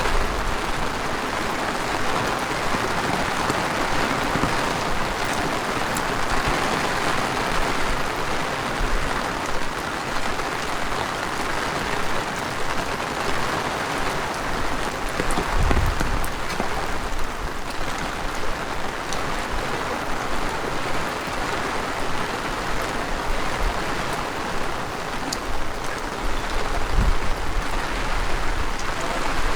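Heavy rain falling steadily, a dense even hiss, with a couple of brief low rumbles about halfway and near the end.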